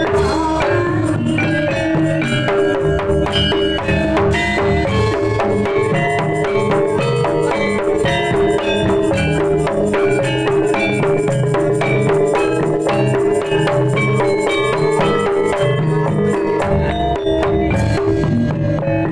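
Kendang hand drums played in fast jaipong-style patterns with a jaranan feel, over steady tuned percussion accompaniment. The music is dense and rhythmic and holds a steady loudness.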